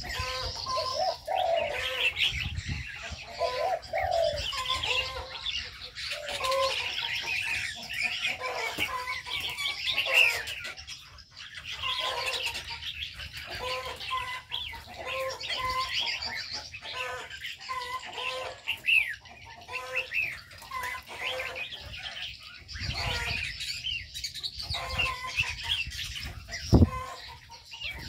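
Mixed aviary birds chirping and twittering together, with a short low call repeating over and over like a dove's coo, and a few low thumps near the end.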